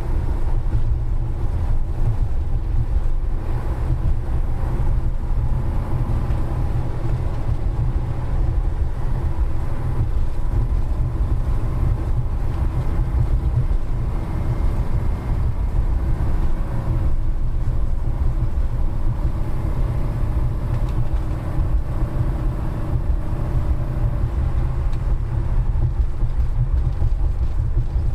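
Steady low road rumble and engine drone of a vehicle driving at a constant speed.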